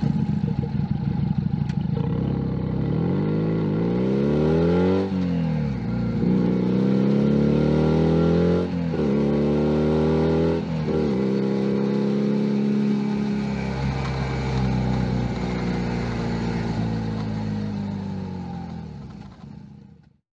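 Junak M11 Cafe's 125 cc single-cylinder engine pulling away: the revs climb and drop back at three gear changes, then the engine note falls steadily as the bike slows, fading out near the end.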